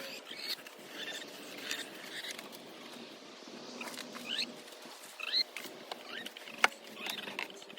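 Chickens making short, soft chirping calls that slide up and down in pitch, over light rustling and scratching; a single sharp click comes near the end.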